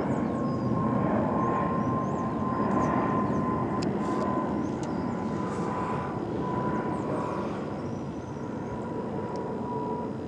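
Jet airliner flying overhead: a steady rumble with a high whine that sinks slightly in pitch.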